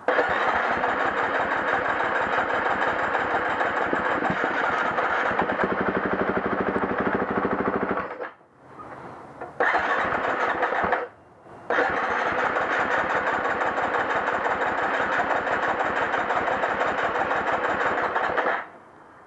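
2011 KTM 350 XC-F four-stroke dirt bike engine being cranked on its electric starter in three attempts: one long run of about eight seconds, a short one, then another long one, each stopping abruptly. The bike is hard to start.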